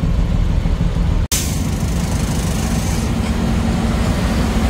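Truck engine running with a steady low rumble. A brief break in the sound about a second in, after which more hiss joins the rumble.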